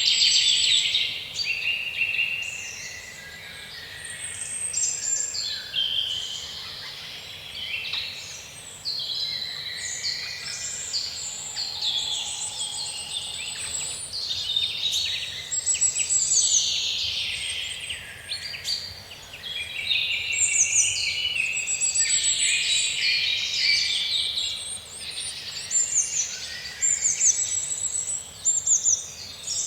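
Several birds singing at once: a dense, continuous chorus of chirps, trills and quick whistles.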